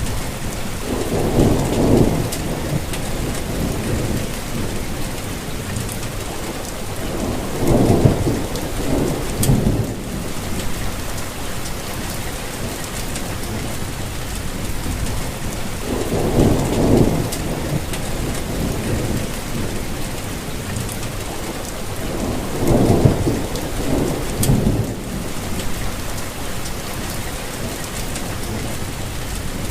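Steady rain falling, with low rumbles of thunder swelling up about four times.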